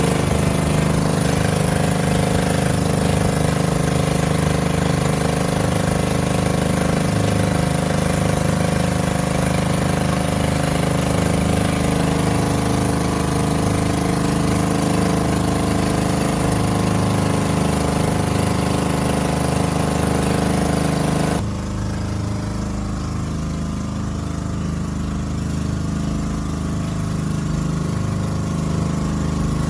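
Boat engine running steadily at an even speed. About two-thirds of the way through, the sound turns suddenly duller and a little quieter.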